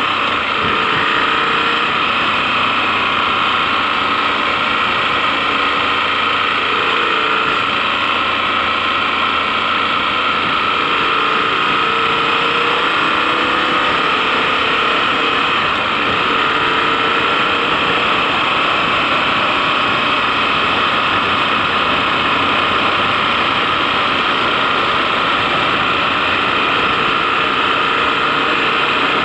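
KTM 1090 Adventure's V-twin engine running steadily under way, under a constant rush of wind and road noise. The engine note shifts up and down slightly.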